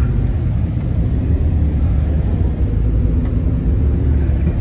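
A 5.3 L LS V8 in a Chevrolet Trailblazer, fitted with 799 heads, gives a steady low rumble as the truck works its way through sand and is nearly stuck.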